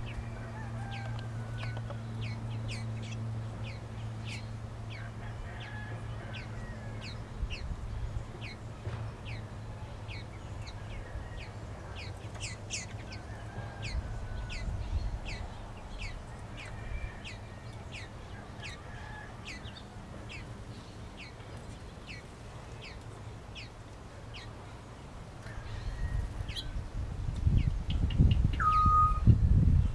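A small bird chirping steadily: short, high, falling chirps about once or twice a second, over faint roosters crowing in the distance. A steady low hum runs through the first half, a short whistle sounds near the end, and a low rumble rises over the last few seconds.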